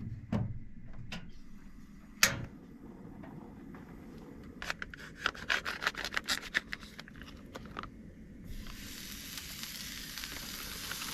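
Light clicks and a flurry of quick ticks from cooking gear being handled, then about three-quarters of the way in a steady hiss starts from the camp stove and hot pan as the steak cooking begins.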